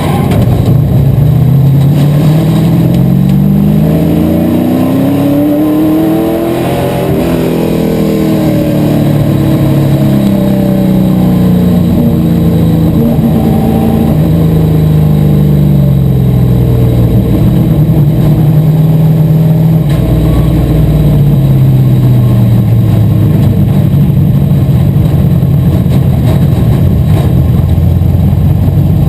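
Asphalt modified race car's V8 engine at racing speed: it climbs in pitch under full throttle for about seven seconds, drops back in steps as the throttle comes off, then climbs again near the end.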